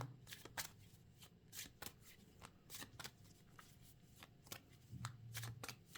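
Tarot cards being handled and shuffled: faint, irregular soft clicks and snaps of the cards.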